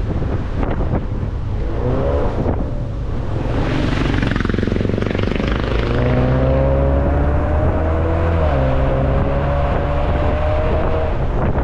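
Car engine running under load over road and wind noise. Its note climbs slowly over several seconds, drops briefly midway, then climbs again.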